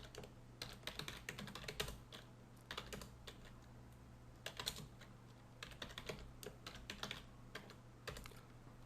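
Typing on a computer keyboard in runs of quick keystrokes separated by short pauses, over a low steady hum.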